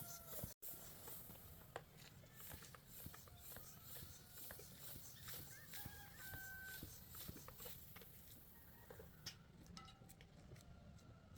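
Near silence, with a few faint short bird calls and scattered light clicks.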